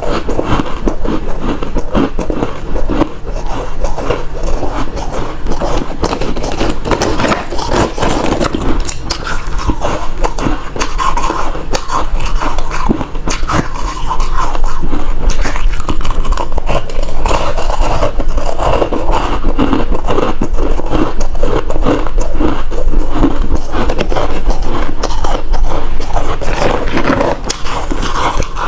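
Refrozen crushed ice being bitten and chewed close to the microphone, a dense, continuous crunching that gets a little louder about halfway through.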